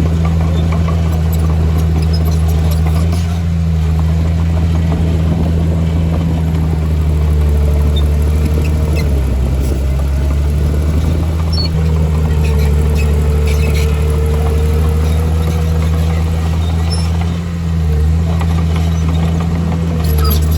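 Heavy diesel engine of construction machinery running steadily with a deep hum. A thin whine comes and goes twice in the middle.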